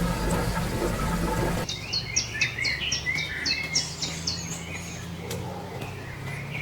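Small bird chirping: a quick run of short, high, downward-sliding chirps that starts suddenly about a second and a half in, after a steady low hum, and thins out after about three seconds.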